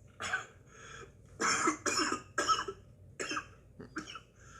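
A man coughing: about six short, harsh coughs in a row, from the burn of a ghost pepper chip in his mouth and throat.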